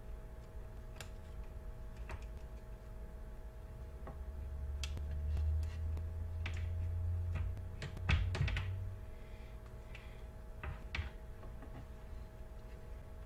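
Scattered small clicks and taps of tools and parts being handled while a tablet is reassembled on a workbench. A low rumble of handling runs through the middle, and a quick cluster of clicks comes about eight seconds in, over a faint steady hum.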